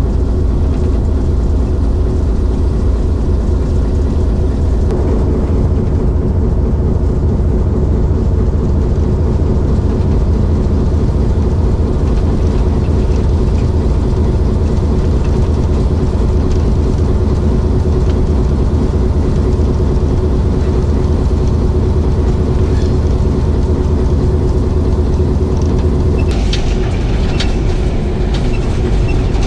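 Kohat Express passenger train running along the line: a steady rumble of the moving train, with a few sharp clicks from the wheels near the end.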